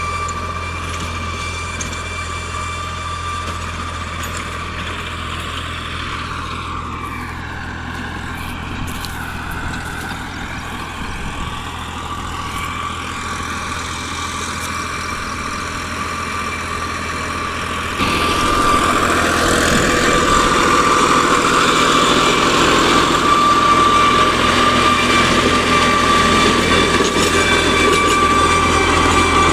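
New Holland 3600 tractor's diesel engine running steadily, getting clearly louder about eighteen seconds in.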